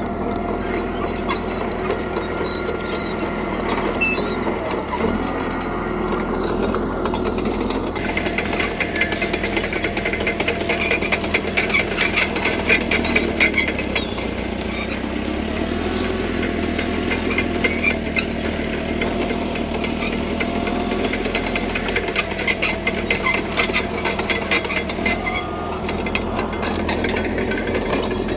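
CAT D3K crawler bulldozer working: its diesel engine runs steadily under the rapid clanking and squealing of its steel tracks. The clatter grows busier about eight seconds in and eases again near the end.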